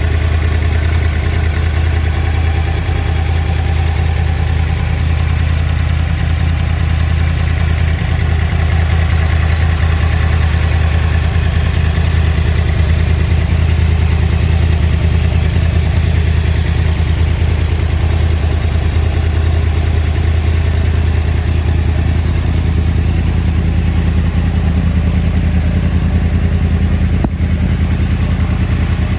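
Yamaha YZF-R1 WGP 50th Anniversary model's inline-four engine idling steadily.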